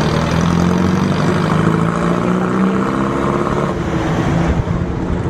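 Car engine running at a steady pitch as it drives along at constant speed, with road noise; some of the higher hiss drops away about four seconds in.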